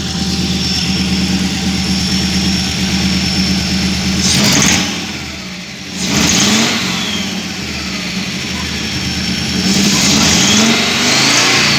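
Audi 100 C3's 2.0 five-cylinder petrol engine idling, then revved three times: briefly about 4 s in, again about 6 s in, and for longer from about 10 s to near the end. The engine has started running rough and knocking under throttle, a knock the owner likens to piston pins and cannot place between the bottom end (connecting rods, bearings) and the head (valves).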